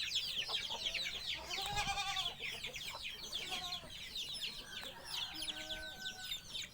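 Wild birds calling in a dense chorus of rapid, high, short downward chirps, with a lower arched call about two seconds in and a few held notes near the end.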